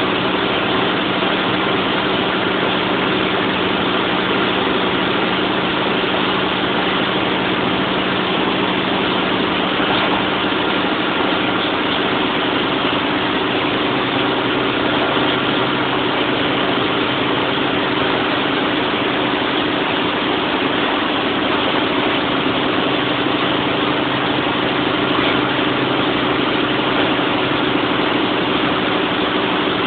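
Large diesel generator set running steadily: a constant engine drone with a few steady low hum tones, unchanging throughout.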